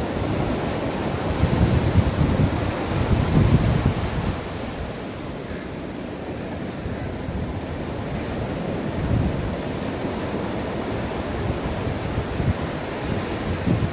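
Ocean waves washing onto the shore, with wind buffeting the microphone; a louder surge comes in the first few seconds, then it settles to a steadier wash.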